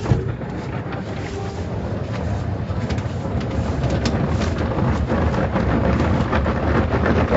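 Car wash spraying water and running its machinery on a car: a steady rushing wash with a low rumble and many small patters and ticks, growing a little louder toward the end.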